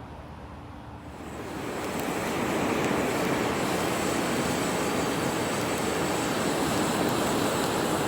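Steady rushing of air that swells up about a second in and then holds at an even level.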